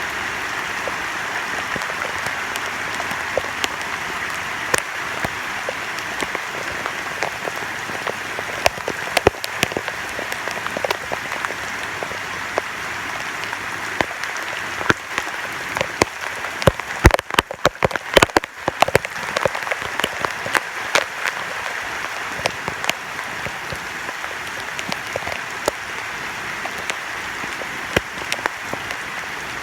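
Heavy, sustained rain falling: a steady hiss of rain with many sharp drop impacts, and a dense flurry of louder taps a little past halfway.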